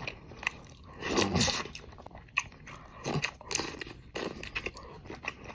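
Close-miked eating of a seafood boil: wet chewing and mouth clicks with crunches, loudest in a longer burst about a second in and again around three seconds.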